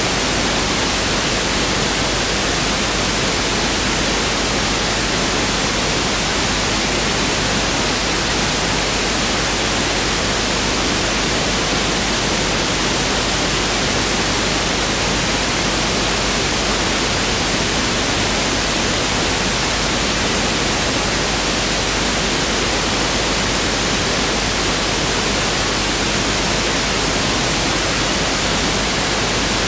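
Pink noise test signal (1/f noise): a steady, even hiss at constant level.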